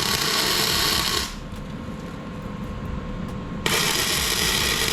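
Welding arc crackling on steel in two runs of a couple of seconds each, welds on a fire pit ring: the first stops about a second in, the next starts near the end.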